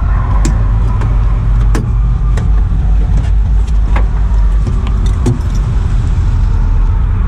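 The LS V8 of a Nissan S13 Silvia drift car running at low revs as a steady low rumble, with scattered sharp clicks and rattles throughout.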